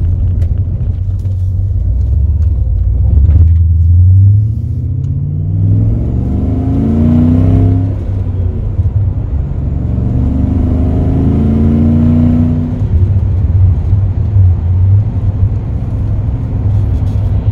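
A car's V8 engine accelerating hard over a heavy low rumble, its pitch climbing in long pulls and dropping back between them, as it runs up through the gears.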